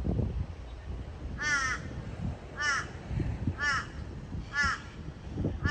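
A bird giving a series of loud calls, about one a second, each call arching up and down in pitch.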